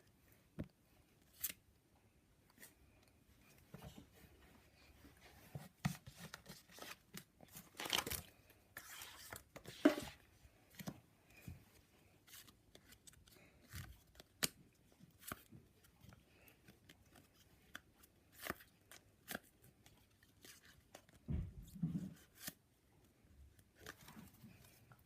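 Trading-card packets and cards being handled: quiet, irregular tearing, crinkling and clicking of wrapper and card stock, with a few louder tears now and then.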